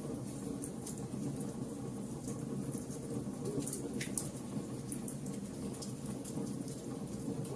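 A fire burning with a steady low rumble and scattered sharp crackles and pops, a few a second.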